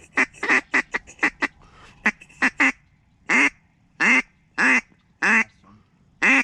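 Waterfowl call blown up close: a fast run of short quacking notes, then slower, drawn-out quacks spaced about half a second to a second apart, calling to a circling bird.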